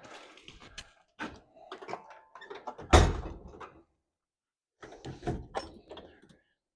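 Clattering and knocking of tools and metal parts being handled, with one heavy thump about three seconds in.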